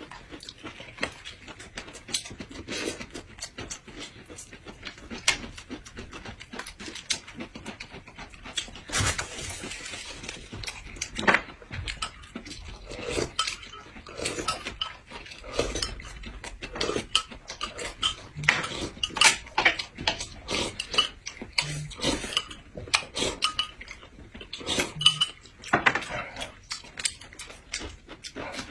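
Close-miked eating sounds: irregular wet chewing and lip-smacking, with chopsticks and a spoon clicking against bowls and plates.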